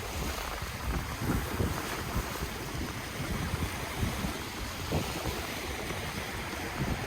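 Ocean waves washing on the shore, a steady surf wash with wind buffeting the microphone in an uneven low rumble.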